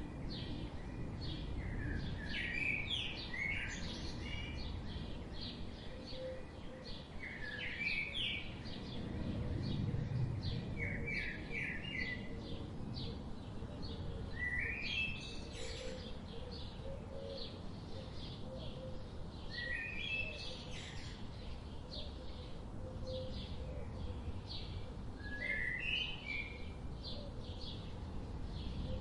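Songbirds chirping: a steady stream of short, high chirps with quick runs of rising notes every few seconds, over a steady low background hum.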